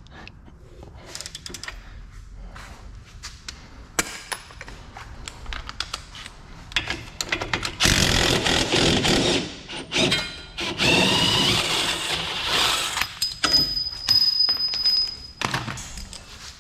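Tools working on bolts of a car's rear suspension: scattered clicks and knocks, then a power tool running in loud stretches from about eight to thirteen seconds in, with another short burst near the end.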